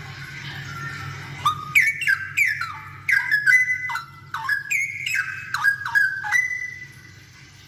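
Straw-headed bulbul singing a loud burst of rich, fluty notes with quick falling and rising glides. The phrase starts about a second and a half in and ends on a short held note.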